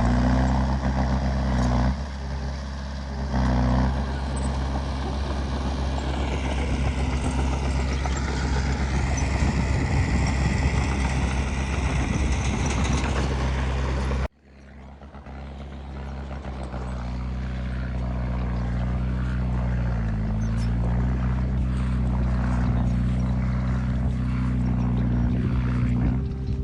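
Diesel engine of heavy earthmoving machinery running steadily. The sound cuts off suddenly about halfway through, then builds back up over the next few seconds.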